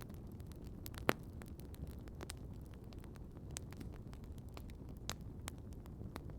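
Wood campfire crackling: scattered sharp pops and snaps over a low, steady background noise, with one loud pop about a second in.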